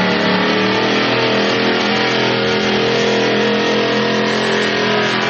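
Vintage Dodge fire truck's 440 big-block V8 running hard and steady under load while pulling the sled, its note rising slightly and then holding.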